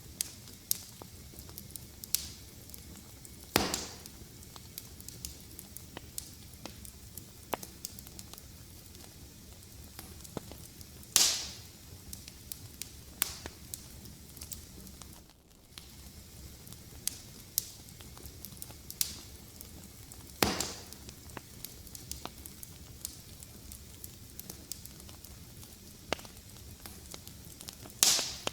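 Wood fire crackling: a low steady hiss of burning with frequent small sharp crackles and a few louder pops spaced several seconds apart.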